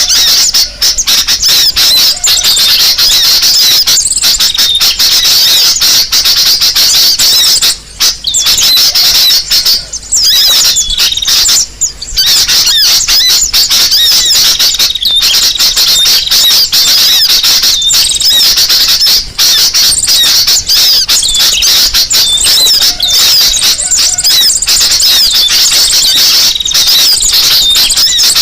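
Sunbird lure call (kolibri sogok ontong): loud, dense, rapid high-pitched chirping and twittering, almost without pause. The only breaks are a few short gaps about a third of the way in.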